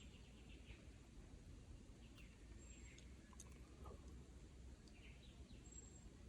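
Near silence: faint outdoor ambience with a few scattered faint bird chirps.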